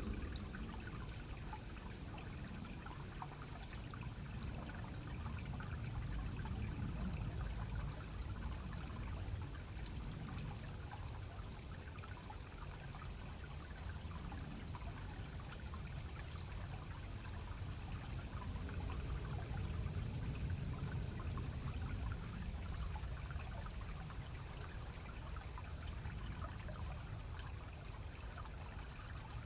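Stream water running steadily, swelling and easing a little in loudness, with a few faint, brief high chirps.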